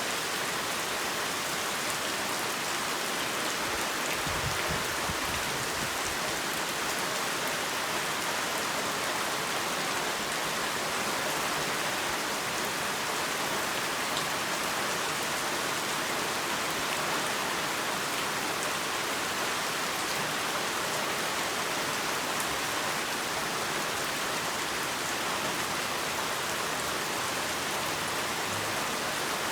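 Heavy rain falling steadily, a dense, even hiss of many drops. There is a faint low rumble about four seconds in.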